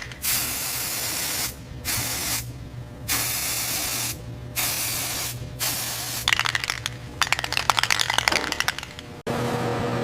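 Pressurised spray hissing in repeated bursts, starting and stopping several times over a steady low hum, with a stretch of fast crackling near the end before it cuts off suddenly.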